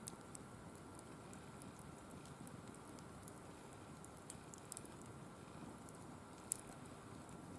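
Firewood burning in a wire-mesh fire pit, crackling faintly with scattered small pops and one sharper pop about six and a half seconds in.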